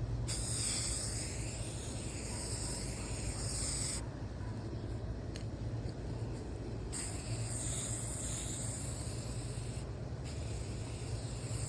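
Aerosol spray paint can spraying in three long bursts of hiss with short pauses between.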